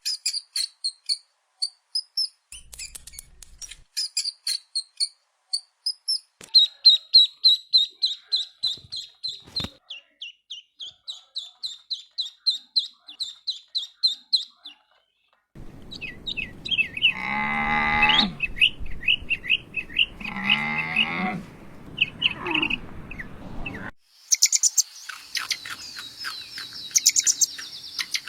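Small birds chirping in quick series of high notes, then a cow mooing: two long calls and a short third. Near the end a fast, high-pitched insect trill.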